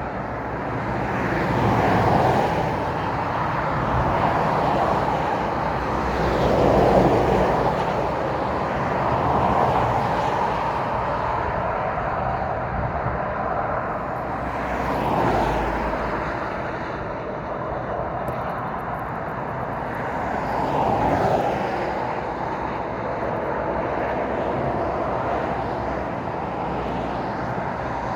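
Road traffic: a continuous rush of tyre and engine noise, with several vehicles passing one after another, each swelling and fading as it goes by.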